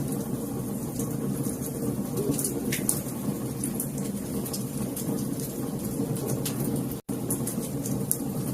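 Wood fire in a fireplace crackling: a steady low rumble of flames with frequent sharp pops and snaps. The sound drops out for an instant about seven seconds in.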